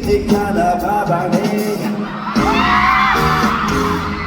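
Live pop song: a singer over a band, holding one long note in the middle, with the audience whooping.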